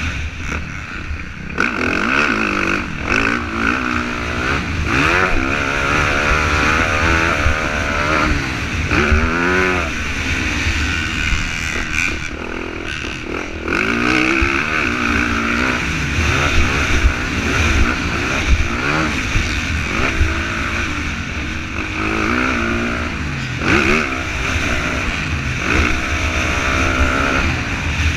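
Motocross bike engine running hard and revving up and down over and over, its pitch climbing through the gears and dropping off, with a steady low rumble underneath.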